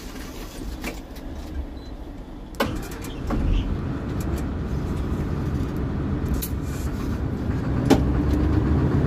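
SANY excavator's diesel engine running, heard from inside the operator's cab. A sharp click comes about two and a half seconds in, and the engine grows louder from about three seconds on.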